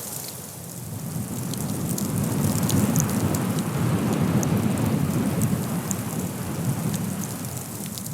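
Blizzard wind gusting: a low rushing noise that swells from about a second in and eases off near the end, with faint scattered ticks on top.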